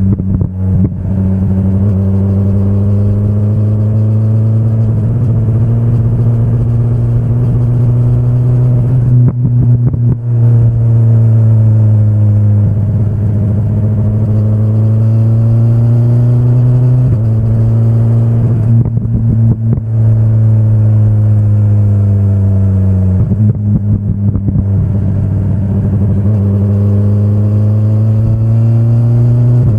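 BMW S1000RR's inline-four engine running under way, its pitch climbing slowly between three sudden drops, about a third, halfway and three quarters of the way through.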